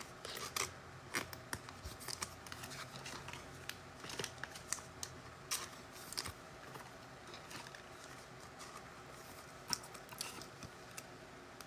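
Faint scattered clicks and light rustles of trading cards and their packaging being handled and sorted by hand, busier in the first half and sparser later.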